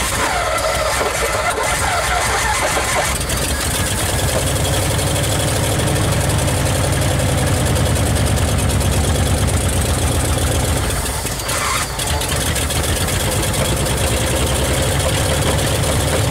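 1959 Ford Custom 300's 292 Y-block V8 running with a fast, steady low beat, a wavering higher whine over it for the first three seconds or so. The engine falters briefly near twelve seconds, then keeps running.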